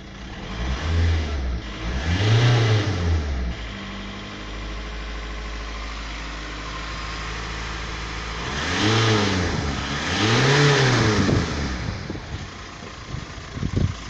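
Volkswagen engine on a test run, blipped up in revs twice, settling to a steady idle, then revved twice more and dropping back to idle.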